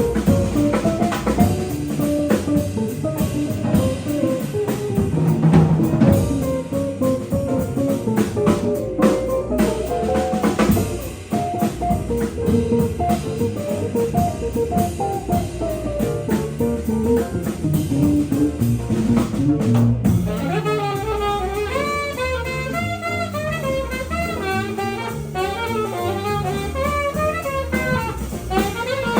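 Jazz quintet playing: a guitar line over walking bass, drum kit and piano. About twenty seconds in, a faster, busier line in a higher range takes over, as the alto saxophone comes in.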